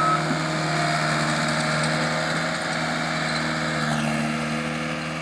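Skid steer loader's engine running steadily as the machine grades dirt. A reversing beep cuts off right at the start.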